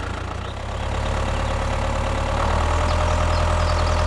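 A small tractor's motor running steadily, getting louder about a second in and again at about two and a half seconds.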